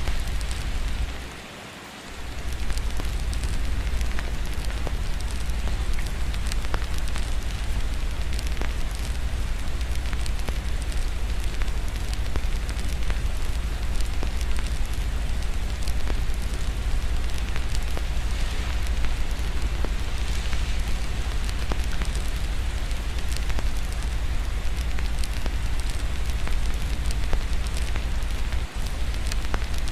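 Wood fire crackling over a steady wash of rain, with a constant low rumble underneath. The whole mix dips briefly about two seconds in, then comes back.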